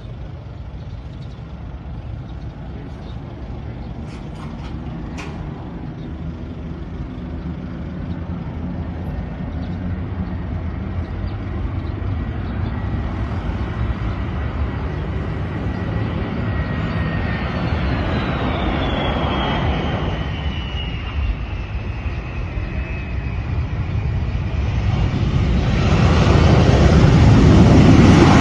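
Boeing 767 jet engines on a landing approach, a rumble growing steadily louder. A high engine whine falls in pitch as the airliner passes, and a loud roar builds near the end.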